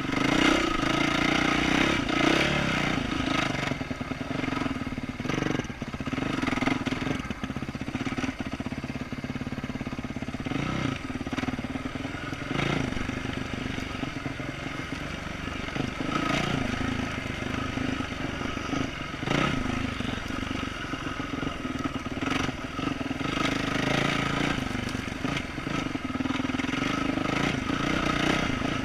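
2012 Yamaha YZ450F's single-cylinder four-stroke engine running through an aftermarket exhaust, its revs rising and falling as the throttle is worked, with scattered clattering knocks as the bike rides over roots.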